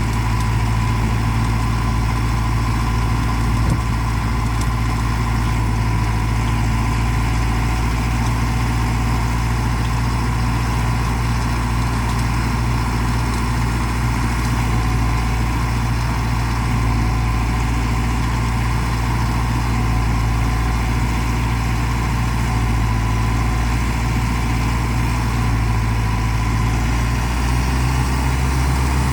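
Mahindra tractor's diesel engine running steadily at constant speed, a low drone with a fainter steady whine above it. The engine note shifts slightly near the end.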